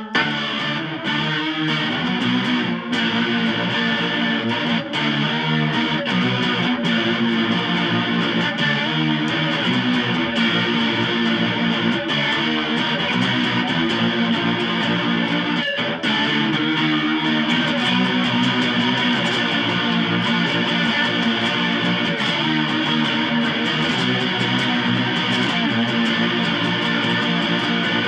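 Distorted electric guitar strumming grunge-style chords without pause.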